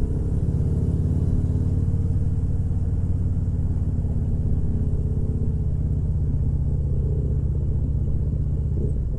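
Motorcycle engine running steadily with a low rumble, holding an even pitch without revving up or down.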